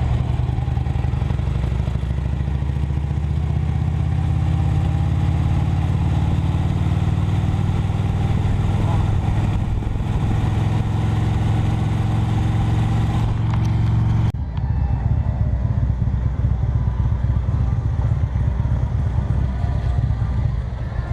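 Motorcycle engine running steadily at cruising speed, with wind noise. About fourteen seconds in, it cuts off suddenly to a different, less even mix of sound.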